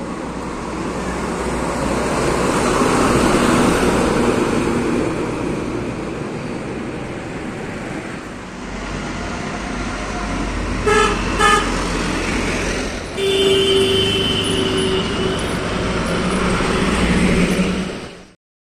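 Trucks and other road traffic passing, with two short horn toots about eleven seconds in and a longer horn blast a couple of seconds later. The sound cuts off suddenly near the end.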